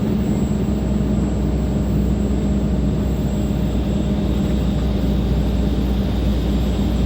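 Heavy truck's diesel engine running steadily as the loaded truck climbs a mountain grade, heard from inside the cab as an even low drone.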